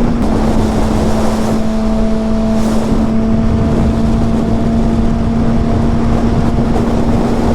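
2006 Honda CBR600RR inline-four with a Yoshimura exhaust running at steady revs while riding, one even engine note with no rise or fall, over a heavy rumble of wind on the helmet microphone.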